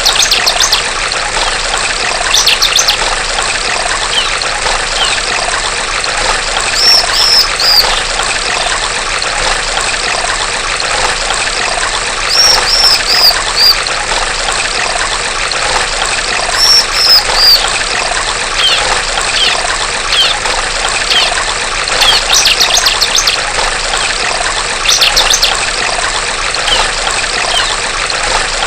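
Female bar-winged prinia (ciblek) giving short bursts of three or four quick, high chirps every few seconds, over a steady trickle of running stream water.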